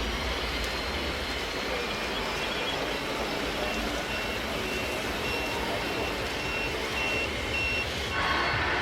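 Reversing warning beeper on a model truck, sounding at one high pitch about twice a second over steady background noise.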